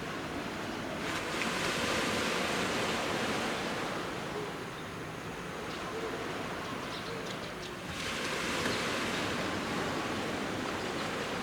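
Sea waves breaking and washing up a beach, with two surges: one building about a second in and fading, another arriving suddenly about eight seconds in.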